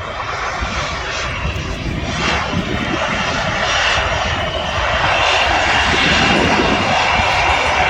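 Airliner engines growing steadily louder as the aircraft nears, with a steady high whine coming in about halfway through.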